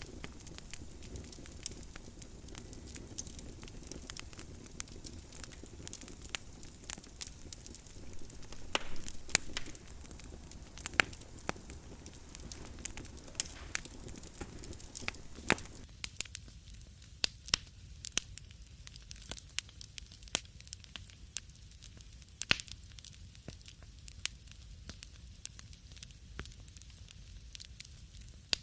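Wood fire burning in a fireplace: irregular sharp crackles and pops over a low, steady hiss of flame. About halfway through, the hiss underneath thins out while the crackling goes on.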